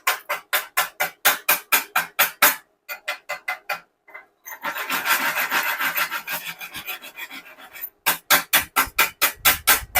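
Steel weld bead being scrubbed, most likely with a wire brush to clean it for inspection: quick back-and-forth scraping strokes about four a second, a pause, then a few seconds of continuous rasping scrub, then the quick strokes again.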